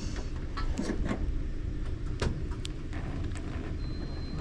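Steady low rumble of an idling vehicle engine, with a few short clicks and knocks over it.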